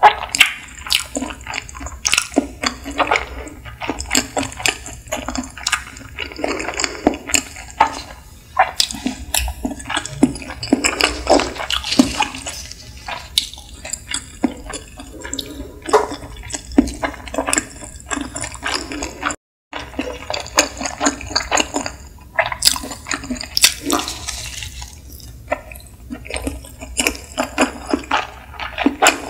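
Close-miked wet chewing and mouth sounds of someone eating nigiri sushi: many soft, irregular smacks and clicks, with a brief gap in the sound about two-thirds through.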